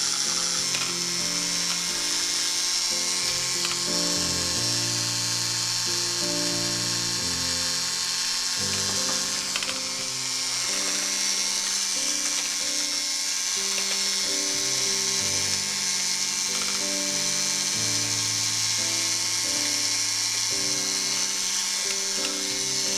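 Soft, slow background music over the steady high whine of a small electric motor, plausibly an electric hand mixer whipping meringue.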